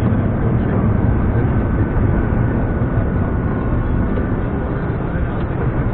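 Scania R420 truck's straight-six diesel engine running steadily under way, with road noise.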